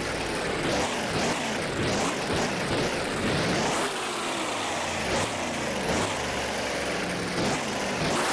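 Monster truck engine revved hard over and over, its pitch swooping up and down about once a second.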